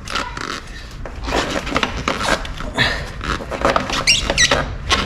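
Hands working a motorcycle's rubber drive belt onto the rear belt pulley: irregular scraping, clicking and knocking of parts, with a few short high squeaks about four seconds in.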